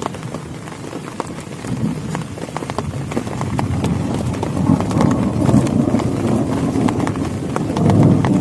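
Heavy rain drumming on a plastic tarp: a dense, irregular patter of sharp drop impacts over a steady rush of rain. A deeper, louder swell of noise builds through the second half.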